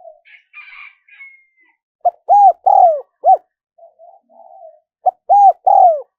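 Spotted dove cooing: two loud phrases about three seconds apart, each a short note, two longer ones (the second falling) and a short closing note. Soft low murmuring notes come between the phrases, and a faint higher chirp comes near the start.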